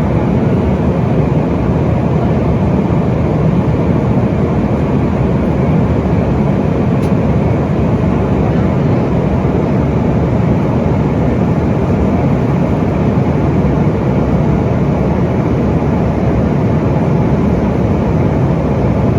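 Steady cabin noise inside a Bombardier CRJ-900 at takeoff power: the rush of its rear-mounted GE CF34 turbofans and airflow, heard from a seat over the wing.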